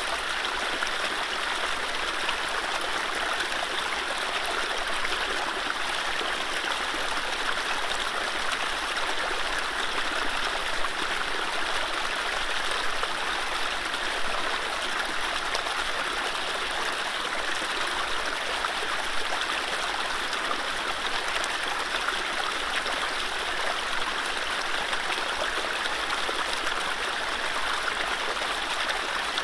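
Mountain stream running steadily over low rapids, a constant rushing and gurgling of water.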